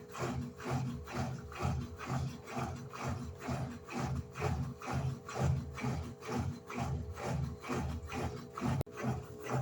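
Electrolux LED14 top-loading washing machine agitating its load, the water swishing back and forth in an even rhythm of about three strokes a second over a steady hum.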